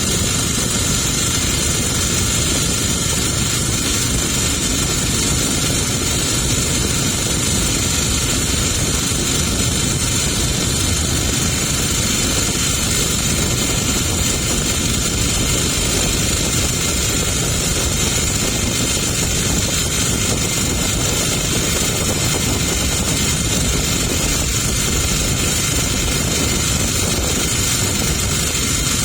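Boat engine running steadily at constant speed, a continuous drone with no change in pitch or level.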